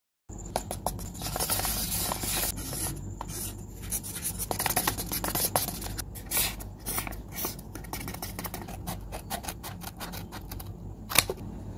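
Paper rustling and crinkling as handmade paper crafts are handled, a dense run of small crackles and scratches with one sharp click near the end.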